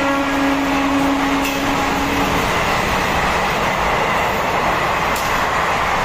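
Indian Railways passenger coaches rolling past close by: a steady rush of wheels on rail with a few faint clicks. The electric locomotive's horn, already past, holds a low note that stops about two seconds in.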